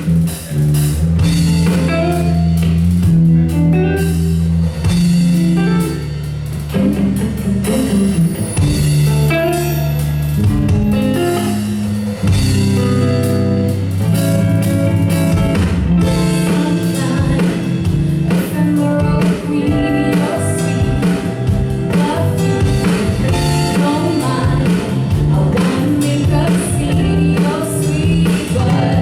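Live song performance: a singer with guitar and drums over deep bass notes.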